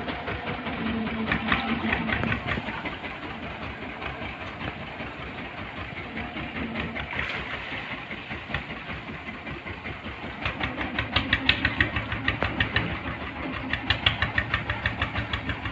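Heavy engine running steadily, with a regular knocking beat that grows louder and more distinct about ten seconds in.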